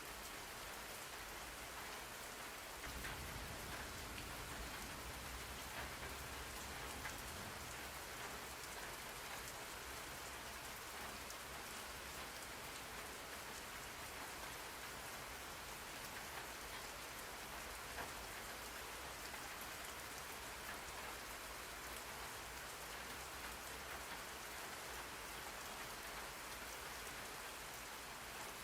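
Recorded rain falling steadily, a dense even patter with scattered drop ticks. A low rumble swells in about three seconds in and comes and goes after that.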